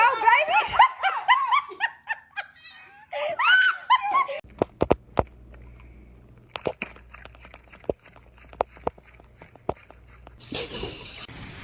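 A person laughing in quick rising-and-falling bursts. About four seconds in, it gives way to a low hum with a string of sharp clicks or taps.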